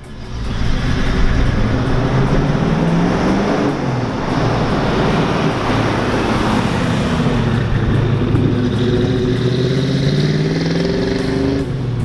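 1971 Chevrolet Camaro Z28's 400 cubic-inch V8 running loud as the car drives past, its pitch climbing, dipping once about four seconds in, then climbing steadily again.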